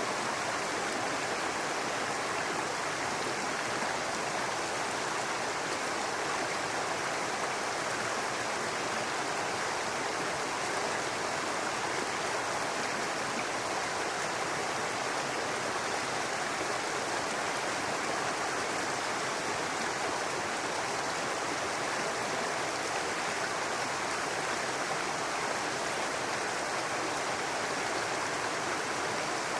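Small brook babbling steadily, a continuous even rush of running water over stones.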